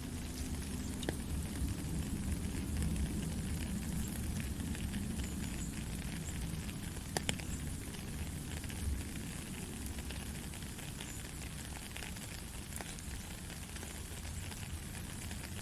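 Steady gentle rain: an even hiss of falling rain with many small drop ticks scattered through it and a low rumble underneath.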